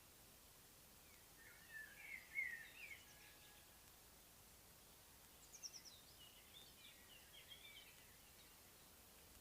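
Faint songbird singing: two short warbling phrases, one about one and a half seconds in and another about five and a half seconds in that opens with a quick run of high notes, over a steady low hiss.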